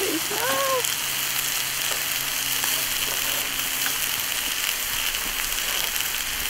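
Oil sizzling steadily on a hot propane flat-top griddle, where chicken is frying and raw tortillas are being laid onto the oiled steel.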